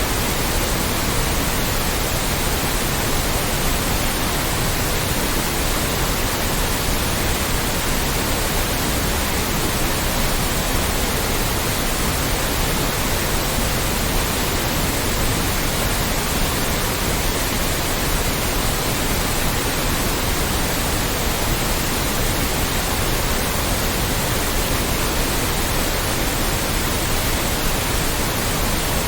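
Loud, steady white noise: an even, unchanging hiss spread across the whole range from deep to very high.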